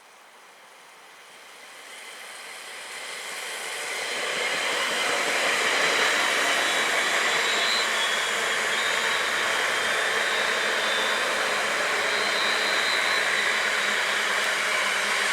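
A train approaching and passing at speed: a steady rushing noise of wheels on rail that builds over about five seconds, then holds loud and steady.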